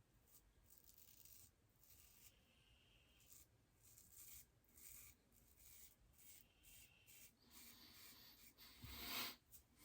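Faint, short scraping strokes of an Irving Barber Co. all-chrome shavette razor cutting lathered stubble on a final shaving pass, a little louder near the end.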